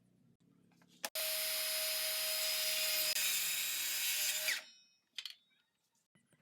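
A handheld electric power tool starts with a click and runs steadily at full speed for about three and a half seconds with a constant whine, then stops.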